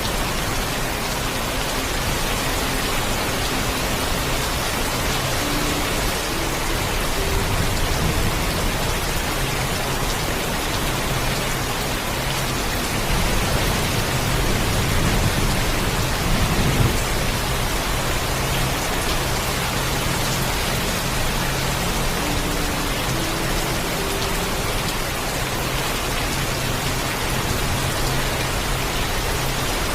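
Steady heavy rain, an even hiss, with a low thunder rumble swelling a little before halfway and peaking just past the middle.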